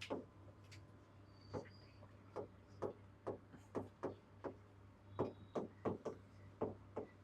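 Writing on a board: a run of light taps and clicks, roughly two a second and unevenly spaced, over a steady low hum.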